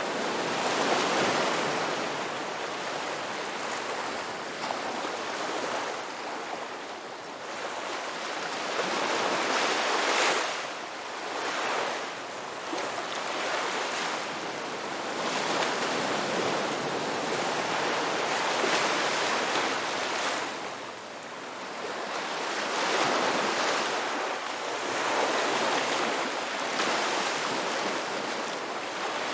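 Ocean waves breaking and washing onto a beach, the surf swelling and fading every few seconds, with a louder surge about ten seconds in.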